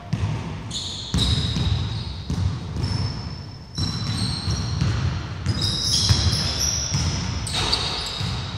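Basketball bouncing on a wooden indoor court during play, with repeated short, high sneaker squeaks on the wood floor.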